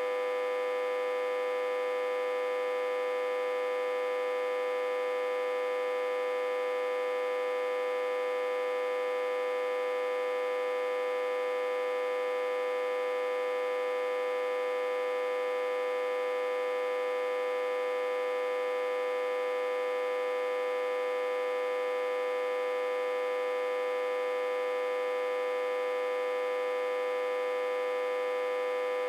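Autotransformer humming steadily, reverse-connected to a step-down transformer and fed about 60–80 V. One strong, unchanging tone with many overtones above it.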